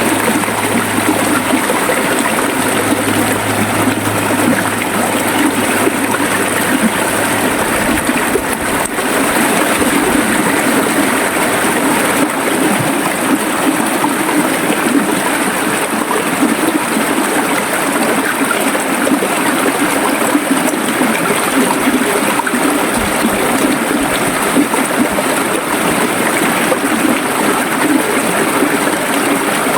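River water flowing steadily, a continuous even rush of running water with no breaks.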